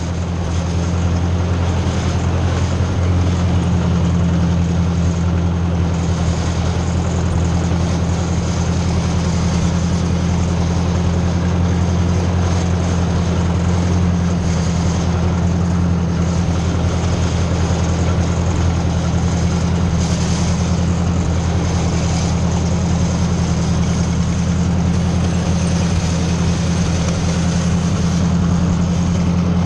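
A 1957 Ford 600 tractor's engine running steadily.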